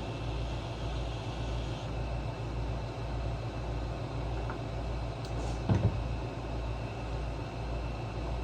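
Steady low hum and hiss of workshop background noise, with two quick knocks close together a little under six seconds in.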